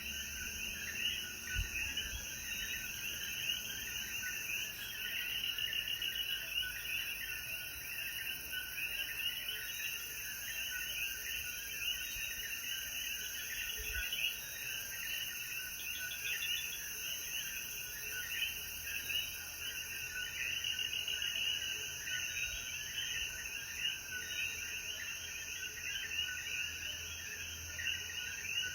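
Dense night chorus of common coquí frogs, many overlapping short chirping calls, with a steady high drone behind them.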